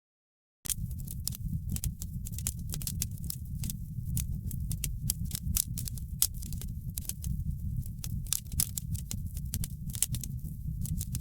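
Wood fire in a fireplace crackling: a dense, irregular run of sharp pops and snaps over a steady low rumble of burning. The sound drops out completely for about the first half second, then comes straight back.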